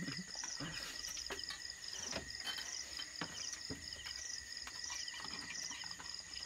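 Chorus of insects chirping, in steady repeating pulsed trills over a continuous high drone, with a few light clicks mixed in.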